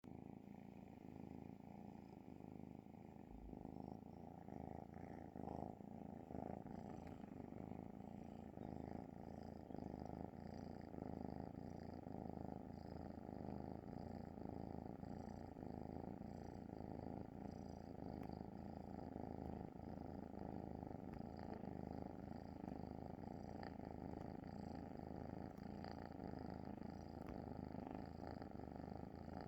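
A domestic cat purring steadily, without a break.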